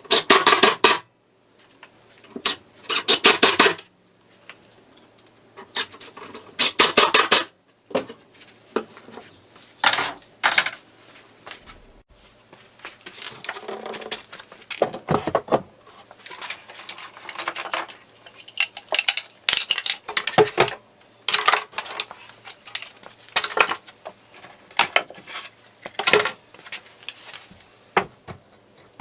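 Hard objects clattering and clicking, with three bursts of rapid clicking in the first half and scattered shorter knocks and clicks after.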